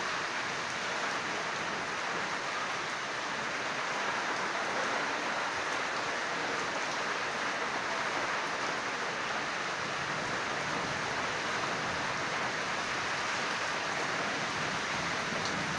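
Heavy rain falling steadily, a continuous even hiss with no thunder.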